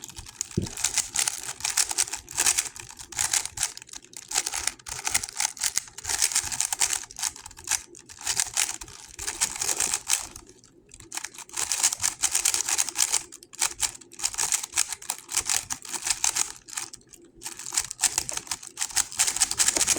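GAN 11 M Pro magnetic speedcube being turned fast during a timed solve: rapid plastic clicking of the turning layers in dense flurries, with a few brief pauses.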